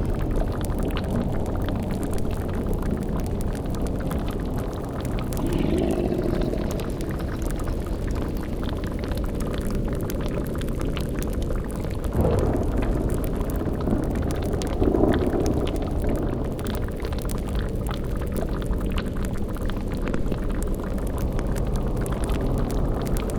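Layered spooky sound-design ambience: a boiling cauldron bubbling thickly over a steady low rumble. A few deeper swells rise out of it, about 6, 12 and 15 seconds in.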